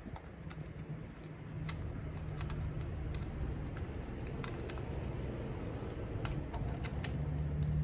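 Scattered light clicks and taps of a hand tool and small engine parts being handled under the hood, over a steady low hum.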